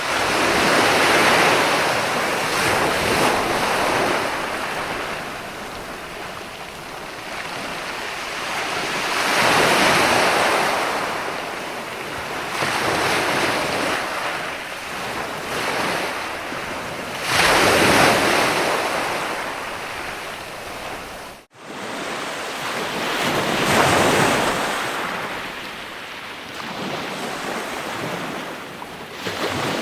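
Ocean surf: waves breaking and washing in slow swells, a surge about every seven seconds, fading between surges. The sound cuts out for an instant about two-thirds of the way through.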